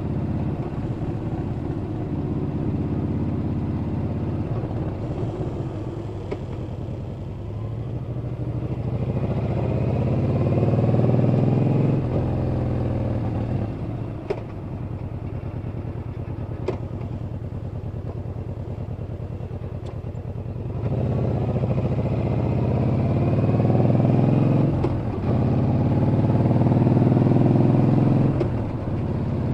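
Yamaha Bolt's air-cooled V-twin engine running on the move. Its note climbs and then drops sharply three times as it pulls through the gears: once about twelve seconds in and twice near the end. Two sharp clicks come in the quieter middle stretch.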